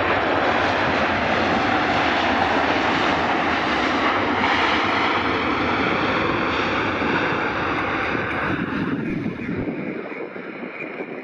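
Jet airliner passing close by with a loud, steady engine roar that dies away near the end.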